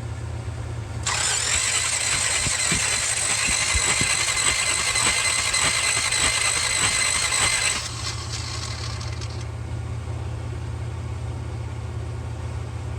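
Starter motor cranking the 1966 Buick Riviera GS's V8 for about seven seconds to take a compression reading on the number 6 cylinder, then cutting off. The engine spins without starting, over a steady low hum.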